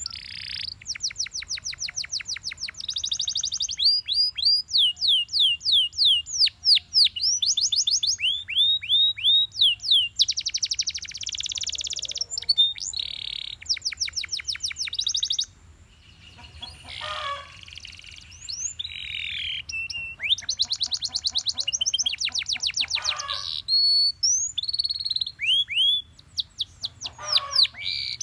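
Belgian canary singing a long, loud song of rapid trills and repeated downward-sweeping notes, changing phrase every second or two, with a brief pause about halfway through.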